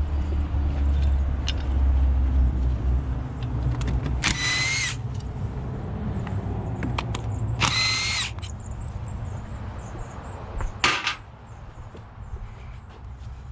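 A small power tool whirring in two short bursts of under a second each, about three seconds apart, among light tool clicks, with a sharp knock near the end.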